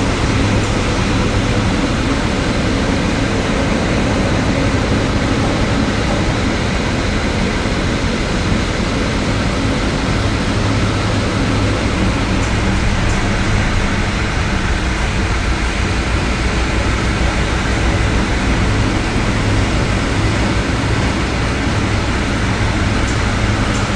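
Loud, unbroken rush of storm wind and heavy sea aboard a ship, with a low steady hum underneath.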